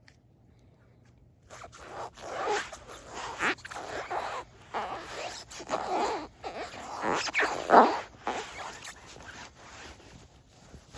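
Joules rubber boots squeaking: a run of short, irregular rubbery squeaks and scrapes, starting about a second and a half in, the loudest just before eight seconds.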